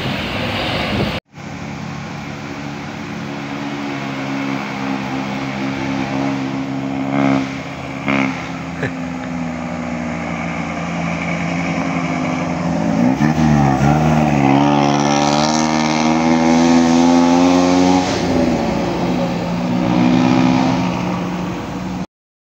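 A heavy vehicle's engine running under load. Its pitch dips, then rises steadily as it accelerates about two-thirds of the way through, and the sound then cuts off abruptly near the end.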